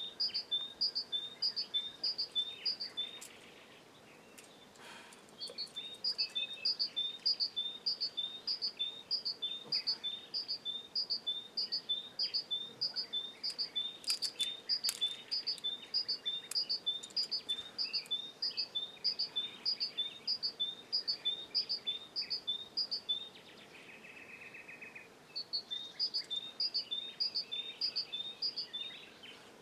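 A songbird singing a high two-note phrase over and over, about two to three phrases a second, in long runs broken by two pauses of a few seconds. A brief buzzy trill fills the second pause.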